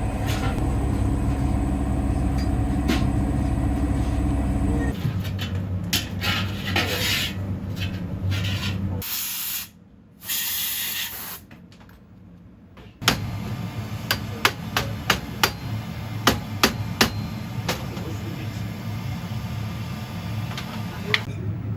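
Hand tools working on metal during motorcycle fork repair: a steady low hum at first that stops about five seconds in, then scraping and rubbing, and later a run of sharp, irregular metal taps.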